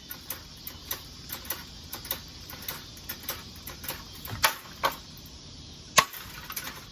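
Damaged ceiling fan clicking and knocking irregularly as it runs, about two or three ticks a second. Two louder knocks come about four and a half seconds in, and a single sharp crack follows near the end.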